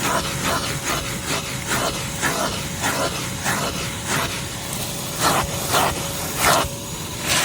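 Shop vacuum running, with its nozzle swept back and forth over a surface in repeated swishes, about two a second, over a steady hum.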